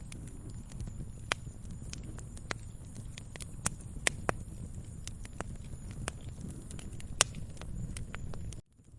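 Wood fire crackling: irregular sharp pops and snaps, a few louder than the rest, over a low steady rumble. The sound drops out for a moment near the end.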